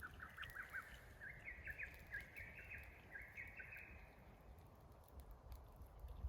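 A songbird singing faintly: a long run of quick, evenly repeated chirping notes that climbs slightly in pitch and stops about four seconds in.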